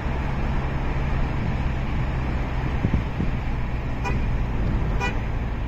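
Steady vehicle engine hum under a broad, even noise, with two short car-horn toots about a second apart near the end.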